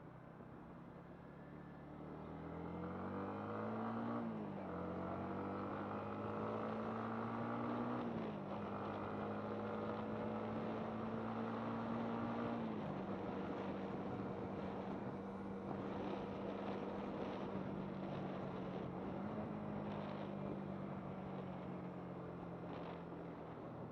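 Yamaha MT-15's 155 cc single-cylinder engine pulling up through the gears: the revs climb and drop sharply at three upshifts in the first half, then hold steady at a cruise.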